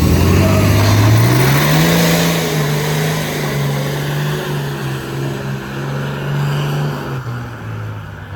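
Pickup truck engine revving up over about two seconds, held at high revs for about five seconds, then dropping back near the end, with a loud rushing noise over it.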